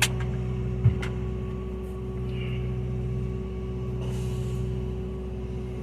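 A steady mechanical hum with a few fixed tones. Two sharp clicks come at the very start and about a second in.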